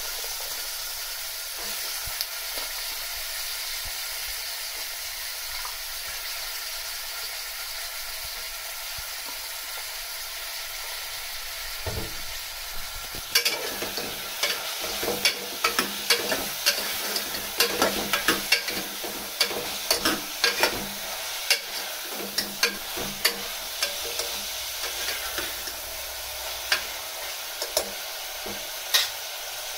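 Chopped vegetables, onion and tomato sizzling steadily in hot oil in a pressure cooker. About halfway through, a metal ladle starts stirring them, clinking and scraping against the pot many times.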